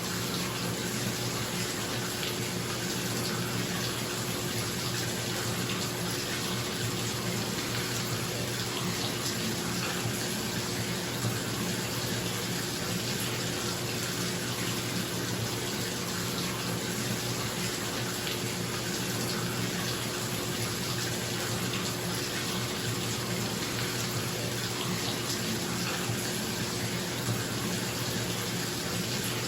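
Bathtub tap running steadily into the tub, with a bathroom exhaust fan humming underneath.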